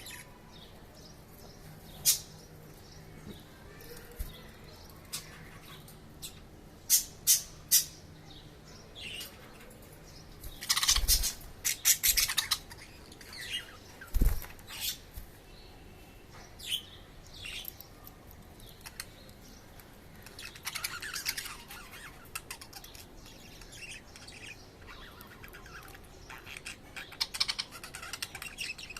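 Budgerigars chirping and chattering in short scattered calls, with a few sharp clicks and louder bursts of calls.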